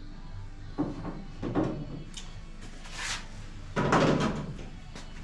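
Slide hammer on a spot-weld dent puller knocking four times as it pulls on a pin welded to a car's steel wheel arch, the last knock the loudest.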